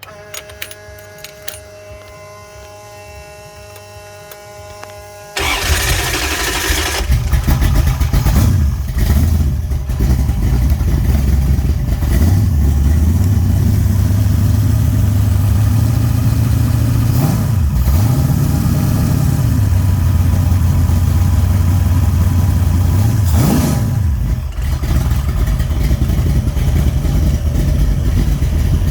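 A stroked 408 small-block Mopar V8 with a big Comp Extreme Energy hydraulic roller cam cranks on the starter for about five seconds, then catches and runs loud. It idles with a deep note and is blipped up briefly about four times.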